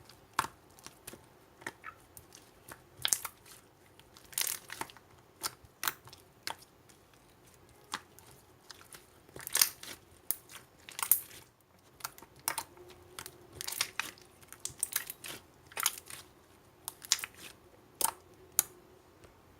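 Slime being squeezed and pressed by hand, making irregular sharp sticky pops and crackles.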